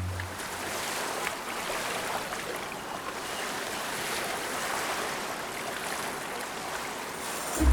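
Running water: a steady, even rush of a flowing stream.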